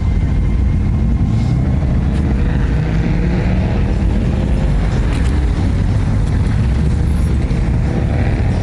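Volkswagen cars' engines running as they drive off, a steady low engine drone.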